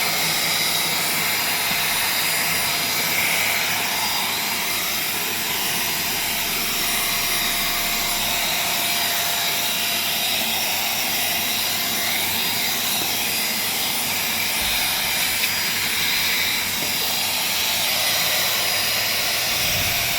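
Agaro Regal 800-watt handheld vacuum cleaner running steadily during cleaning: a constant rush of air with a steady high whine from the motor.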